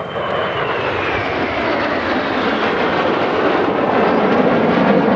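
Kawasaki T-4 jet flying past, its turbofan roar growing steadily louder, with a high whine sliding down in pitch in the first couple of seconds.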